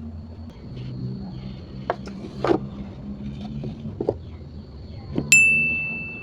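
A few dull knocks over a low steady hum, then a single bright metallic ding a little past five seconds in that rings out and fades over about a second.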